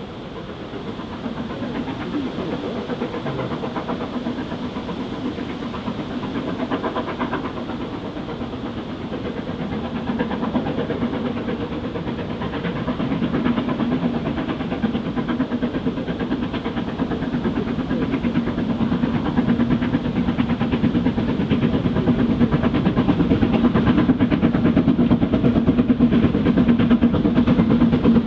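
Steam locomotive hauling a train, approaching and growing steadily louder.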